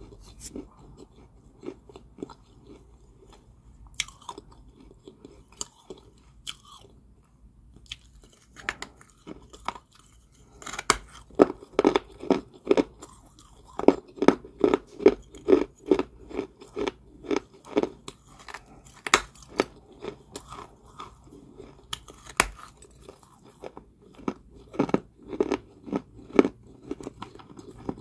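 Close-up crunchy chewing of Georgia White kaolin clay balls. It starts with sparse, softer crunches, then from about ten seconds in the chewing grows louder and steady, at roughly three crunches a second.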